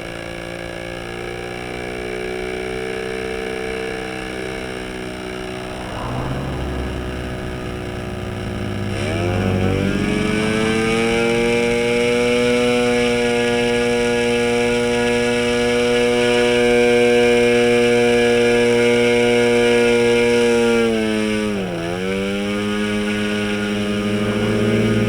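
OS 15LA model two-stroke engine with a diesel head, driving a 10×6 propeller, running steadily. About a third of the way in its revs rise sharply and hold high; near the end they dip briefly and recover, as the compression and needle settings are adjusted.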